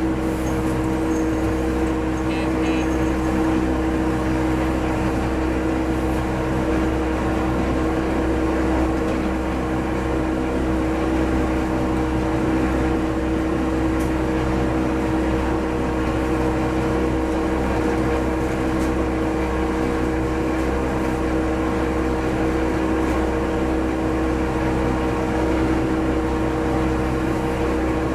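Diesel railcar running along the line: a steady engine drone with two constant humming tones over wheel-on-rail rumble.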